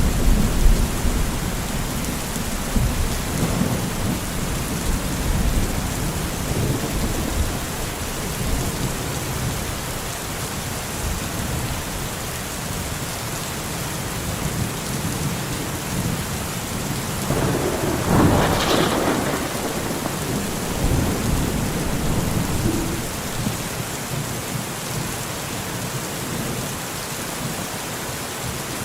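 Steady heavy rain with thunder: low rolling rumbles through the first several seconds and a louder thunderclap about eighteen seconds in.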